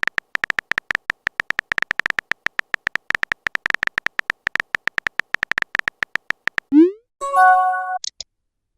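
Phone keyboard typing sound effect: rapid, uneven clicks, several a second, for about six and a half seconds. Then a short rising swoosh and a brief message chime near the end.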